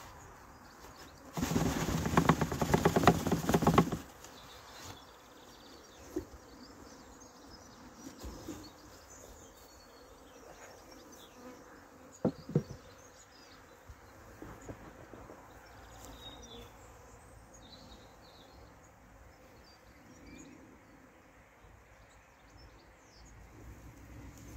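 Honeybee swarm buzzing. About a second and a half in, a loud close buzz lasts a couple of seconds, and a few sharp knocks follow later, the clearest a double knock about halfway through.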